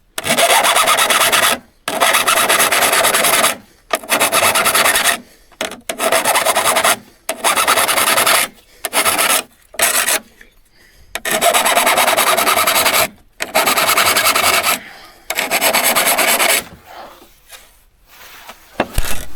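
A hand file drawn across a steel hand saw's teeth in about ten long strokes, each lasting a second or so, with the blade ringing under them: hand sharpening of the saw. There is a short break midway, and a single sharp knock near the end.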